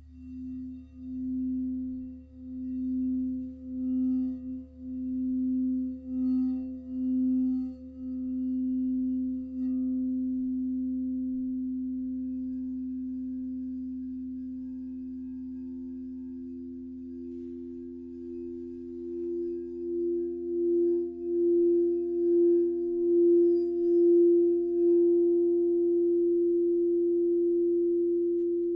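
Singing bowls played by rubbing the rim, giving a pure sustained tone that swells and fades about once a second. A second, higher bowl tone joins about halfway through and grows louder, pulsing against the first.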